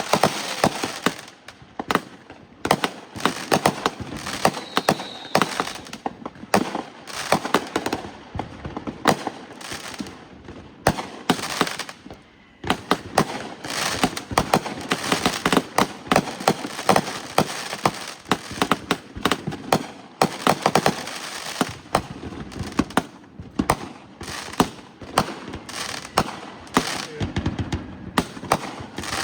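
Fireworks going off: a dense, continuous run of sharp pops and bangs, several a second, with brief lulls around two and twelve seconds in.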